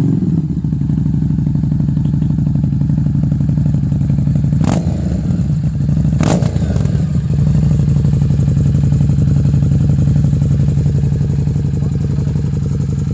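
Harley-Davidson Street 750's liquid-cooled V-twin, fitted with a Vance and Hines aftermarket exhaust, idling steadily just after starting. Two brief sharp sounds stand out over the idle, about five and six seconds in.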